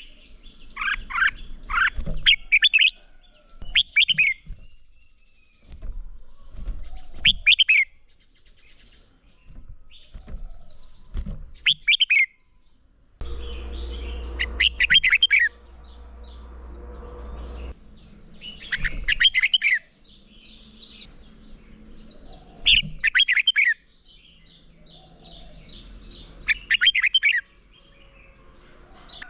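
Red-whiskered bulbul singing its fighting song: short, loud, warbled phrases repeated every few seconds. A low steady hum runs underneath for a few seconds in the middle.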